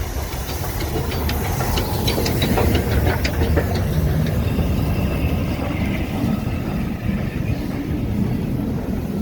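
A steam-hauled train on the move: a steady low rumble, with a quick run of clicks from wheels over rail joints in the first few seconds.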